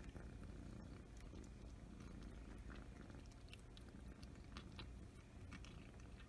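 Russian Blue kitten purring faintly, a steady low rumble, with scattered small clicks over it.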